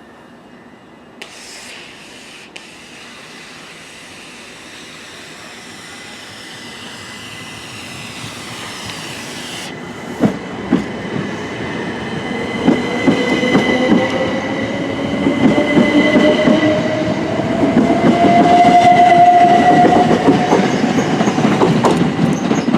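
Class 377 Electrostar electric multiple unit pulling away and accelerating, its traction motor whine rising in pitch and growing louder. From about ten seconds in come clicks of the wheels over the rail joints.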